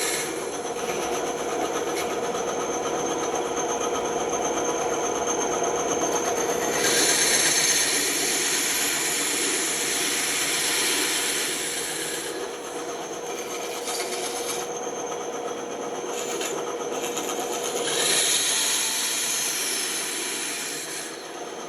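Bandsaw running with a steady hum, its blade cutting through wood, the cutting noise rising in two longer passes, about a third of the way in and again near the end.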